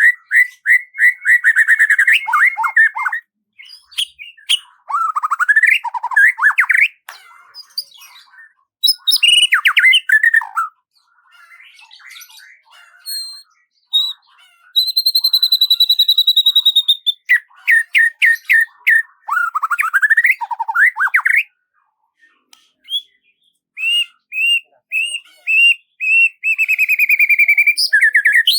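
A songbird singing a long, varied song: fast trills of rapidly repeated notes, sweeping up-and-down slurs, and a clear held whistle about halfway through, with short pauses between phrases.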